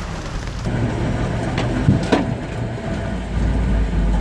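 Heavy truck engine running under load in rough ground, with two sharp cracks about two seconds in and the engine growing louder near the end.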